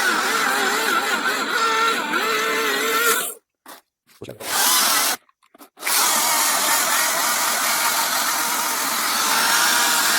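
Hart 14-inch battery chainsaw's electric motor running with a steady whine whose pitch wavers. The sound breaks off twice: for about a second around three and a half seconds in, and for about half a second around five and a half seconds in.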